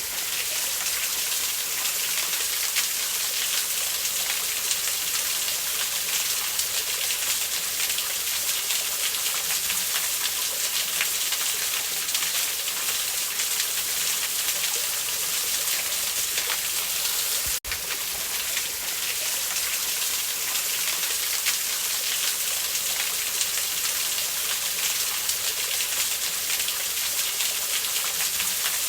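Steady rushing of a waterfall, an even hiss with no pauses, which cuts out for an instant about eighteen seconds in.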